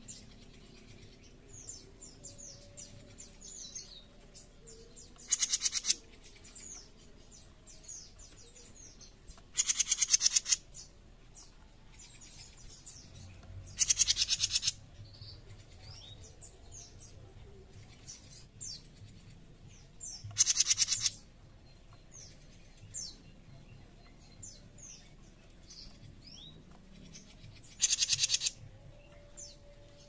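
Caged 'jenggot mini' songbird giving harsh, rasping rattle calls (the scolding 'besetan' call): five loud bursts, each under a second, spaced several seconds apart. Faint high chirps run between them.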